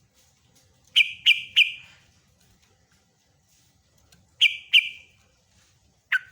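Yellow-vented bulbul (trucukan) calling in short bursts of loud, sharp notes: three quick notes about a second in, two more a little past four seconds, and another just before the end.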